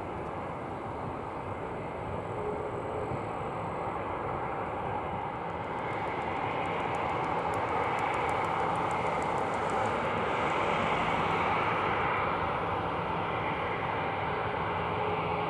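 Airbus A340-313X's four CFM56 jet engines running, a steady roar that swells somewhat in the middle and eases slightly toward the end.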